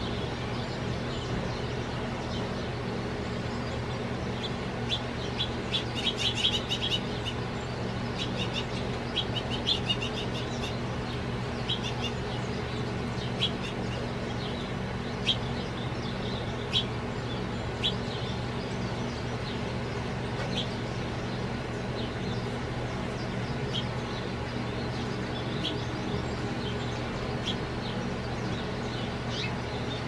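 Small songbirds chirping in short, separate notes, thickest in a flurry about six to ten seconds in and then single chirps every second or two, over a steady low background hum.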